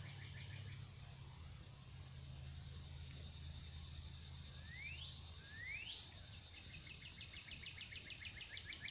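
Quiet backyard ambience over a low steady hum. Two short rising bird whistles come about five seconds in, followed by a fast, even run of high chirps to the end.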